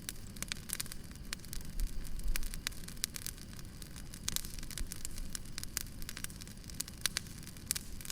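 Wood fire crackling: many sharp, irregular pops and snaps over a low steady rumble.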